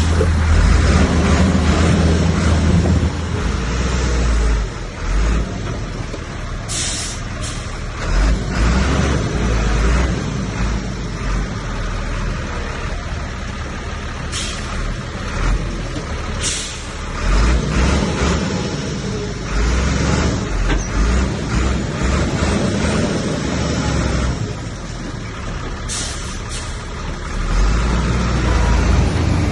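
Heavy diesel earthmoving machinery running, its engine drone swelling and easing, loudest at the start and again near the end. Several short, high air hisses cut through, about four times, typical of a dump truck's air brakes.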